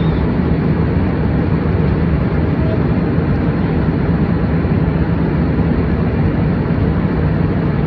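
Steady airliner cabin noise heard from inside the cabin: a constant rumble of engines and airflow, heaviest in the low range with a steady low hum.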